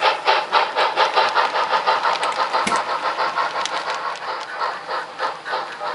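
Sound-equipped model steam locomotive chuffing in a quick, even beat, about five or six chuffs a second at first, easing off a little later on.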